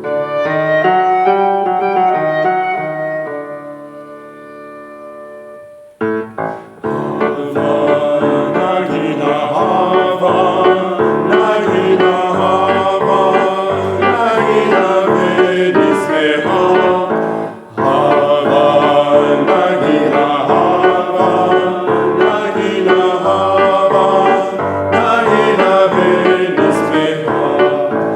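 Vocal ensemble singing with piano accompaniment. It opens on a piano passage that fades, then about six seconds in the voices and piano come in strongly together, with a brief break partway through.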